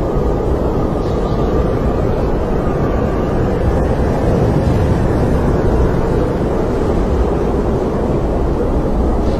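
Snowstorm wind blowing steadily: a dense, low rushing noise with a faint wavering whistle above it.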